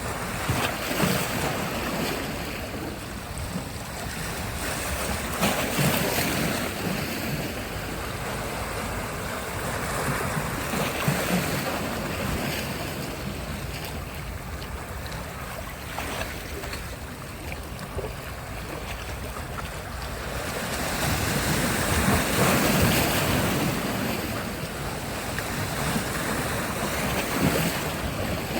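Sea surf washing onto a beach, waves swelling and breaking in surges every few seconds, the longest and loudest about three quarters of the way through.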